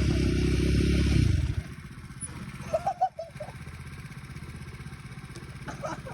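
Small off-road engine running hard, then cutting back abruptly about a second in and carrying on at a much lower, steady level.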